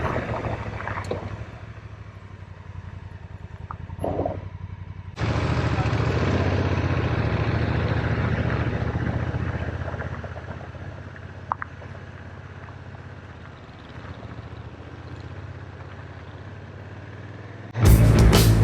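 2019 Honda Africa Twin DCT's parallel-twin engine running steadily under way, with wind rushing over the microphone. The level drops and jumps back abruptly a few times, and music comes in near the end.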